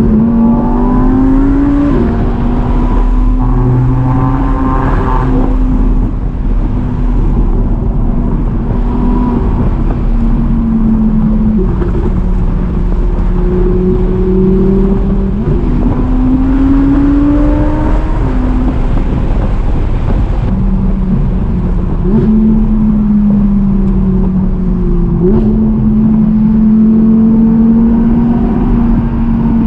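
A car engine pulling under load on the road, its pitch climbing slowly and then dropping sharply at each upshift, several times over, with steady road noise underneath.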